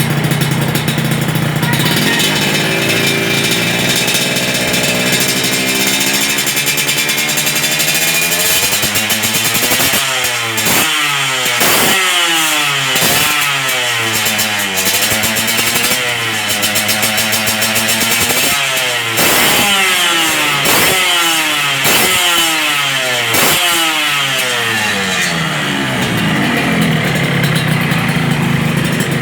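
Motorcycle engine running through an aftermarket lobster-silencer exhaust. It idles steadily, then is blipped again and again, the pitch climbing and falling roughly every second or so for most of the middle, before settling back to idle near the end.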